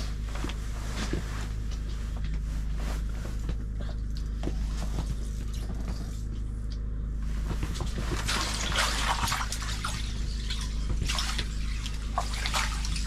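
Water splashing and dripping at an ice-fishing hole while a fish is fought on the line, over a steady low rumble. The splashing grows busier and more crackly about two-thirds of the way through.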